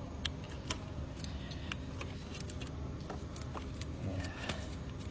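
Scattered light clicks and clinks of hand work on engine parts, such as connectors and tools being handled, over a steady low rumble.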